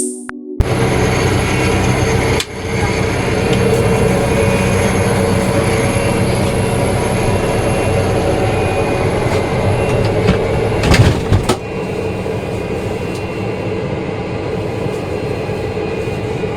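Steady hum and rush of an airliner cabin's air conditioning and machinery, with a sharp click about two and a half seconds in and a few louder knocks around eleven seconds in.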